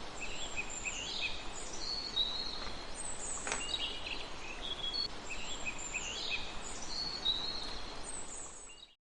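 A small songbird singing, repeating the same short phrase of high chirps and trills twice, over a steady outdoor hiss. A single sharp click about three and a half seconds in, and the sound cuts off right at the end.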